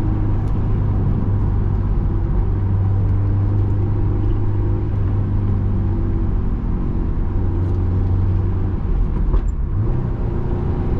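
Honda S2000's swapped-in JDM F20C inline-four running at a steady engine speed while driving, with road noise, heard from inside the cabin with the soft top up. Near the end the engine sound dips briefly, then carries on.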